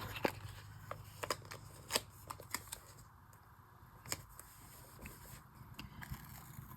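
Paper stickers being handled and repositioned on a journal page: faint paper rustling with scattered light clicks and taps.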